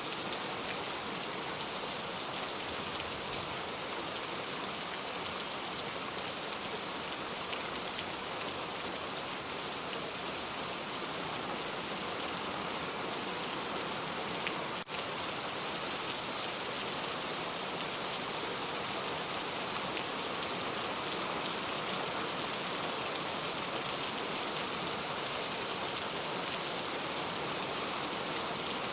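Steady rain falling, an even hiss of drops, with a single brief click about halfway through.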